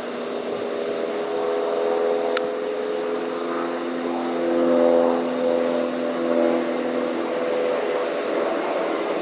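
Engines running steadily, several engine tones drifting slightly up and down in pitch, with a single short tick about two and a half seconds in.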